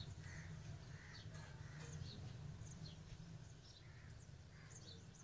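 Faint, scattered short bird chirps over a low steady background hum.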